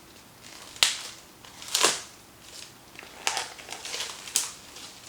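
Close-up eating sounds of black bean noodles being taken in and chewed: several separate wet mouth clicks and smacks, with a longer slurp-like noise a little under two seconds in.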